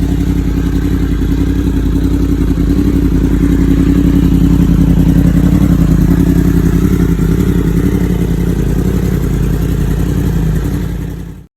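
2020 Yamaha YZF-R1M's crossplane inline-four running at a steady idle through an Akrapovič exhaust, swelling slightly midway. The sound cuts off abruptly near the end.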